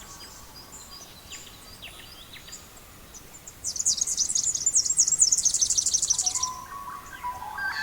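Songbirds chirping: faint scattered high chirps, then a loud, fast trill of rapidly repeated high notes lasting nearly three seconds, followed by lower whistled notes near the end.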